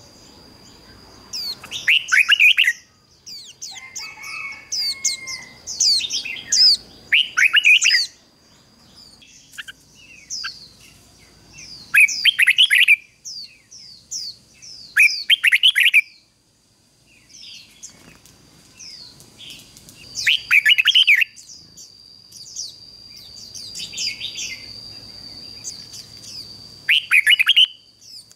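Red-whiskered bulbul singing: short, loud, fast warbled phrases repeated every few seconds, a decoy's song used to call in wild bulbuls. A steady high-pitched tone runs underneath.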